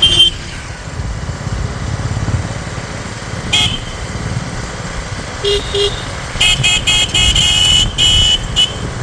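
Vehicle horn tooting: a short toot at the start, another a few seconds later, two quick ones, then a rapid string of toots near the end, over a motorcycle engine running steadily.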